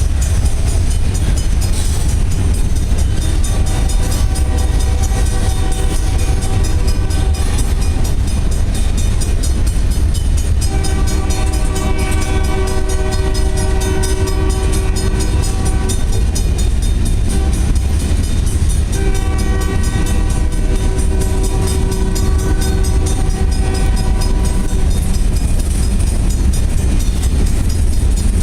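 Union Pacific freight train rolling past with a heavy, steady rumble, its locomotive horn sounding three long blasts.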